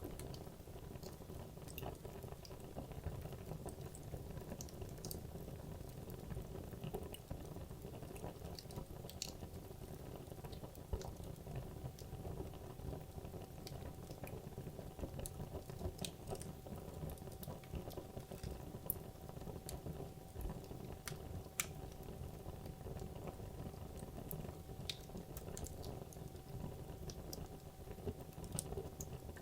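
Wood logs burning in a fireplace: a low steady flame rush with frequent small, irregular crackles and snaps throughout.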